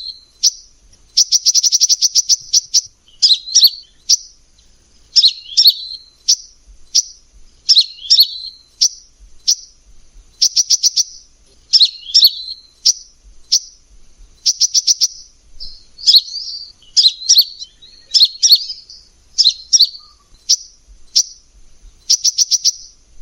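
Olive-backed sunbird (kolibri ninja) singing: short, loud phrases of high, sharp chirps and fast rattling trills, repeated about once a second or so with brief gaps between them.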